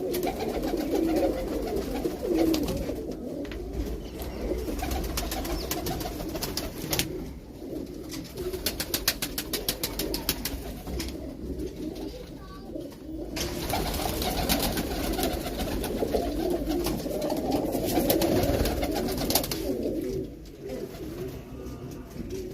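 A flock of domestic pigeons cooing together, with two stretches of quick, even clicking about a third of the way in and again after the middle.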